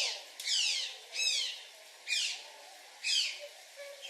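Otter calling: a series of shrill, high-pitched squeaking calls that sweep sharply downward in pitch, about one a second.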